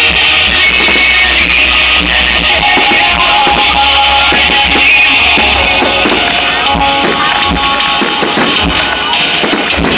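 Music playing loudly with a steady beat, under many sharp cracks and pops from fireworks going off, thicker in the second half.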